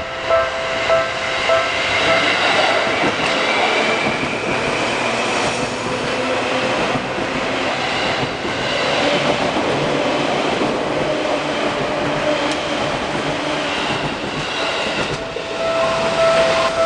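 Level crossing warning bell ringing as a Seibu 2000 series electric train runs past close by at speed, the train's running noise drowning out the bell for most of the passage. Near the end a louder crossing bell rings again.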